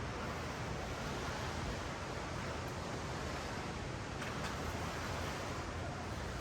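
Ocean waves washing up and down a beach: a steady wash of surf.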